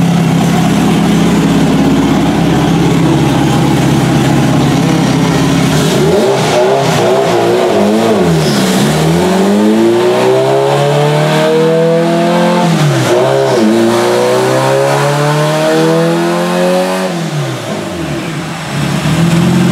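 Turbocharged Honda B18 engine on a chassis dyno. It idles, then revs in climbing sweeps with a dip in between, the second climb running longest before it drops back toward idle near the end. This is a dyno pull at base wastegate boost, about 10.5–11 psi.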